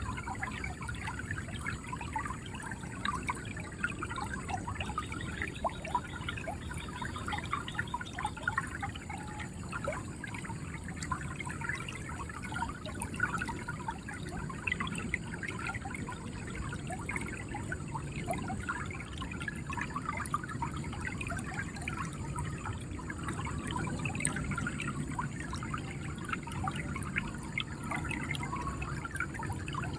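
River water flowing, a steady gurgling and trickling with many small splashes.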